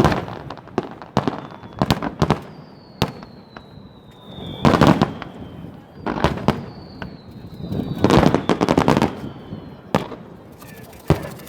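Aerial fireworks going off: a string of sharp bangs, with two big bursts about five and eight seconds in. Each big burst is preceded by a long whistle that falls slightly in pitch. A dense crackle comes near the end.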